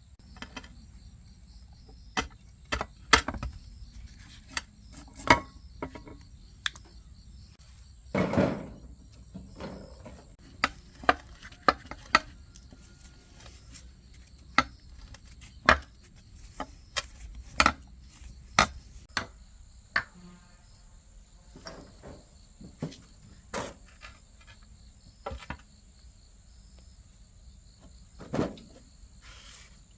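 Irregular sharp knocks and clicks of tools and metal parts being handled, a couple of dozen spread unevenly, with a longer thud about 8 seconds in. A steady high chirring of crickets runs underneath.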